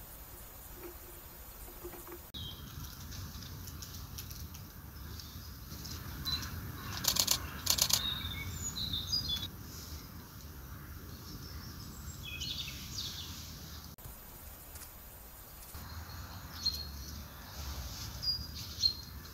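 Woodland birds chirping and calling over a steady outdoor hush. Two short, fast runs of clicks come about seven and eight seconds in.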